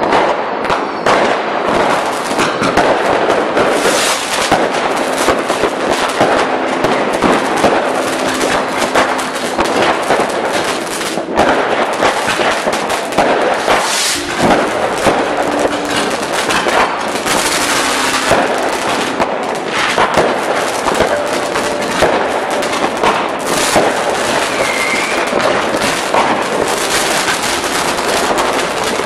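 Fireworks display: rockets and firecrackers going off one after another in a dense, continuous crackle of bangs, with a short rising whistle in the last third.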